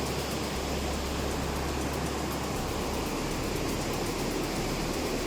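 Steady, even rushing of heavy rain and running floodwater, with no distinct events.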